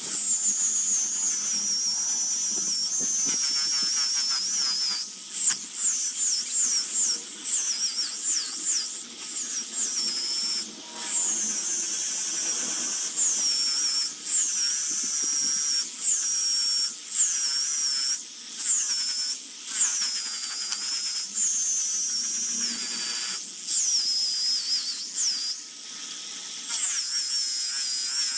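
Small high-speed rotary carving tool cutting wood: a high whine whose pitch sags each time the bit bites into the wood and climbs back as it eases off, every second or two.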